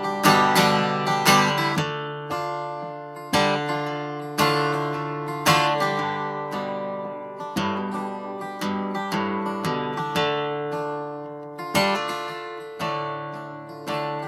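Instrumental break in a live folk song: chords strummed on a string instrument, each stroke ringing out and fading before the next, with a strong stroke about every second.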